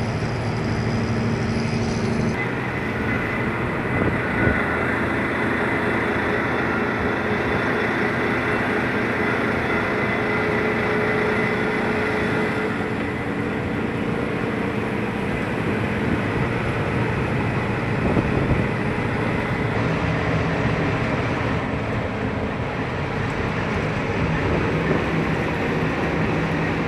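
A truck engine running steadily with road noise while driving, its pitch shifting a few times.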